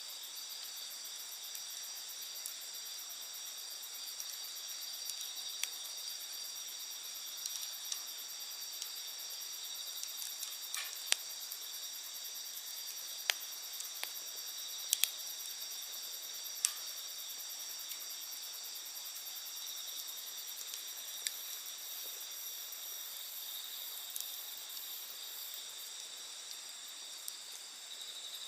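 Steady high chirring of night insects, with scattered sharp pops and crackles from a wood campfire, a few louder pops near the middle.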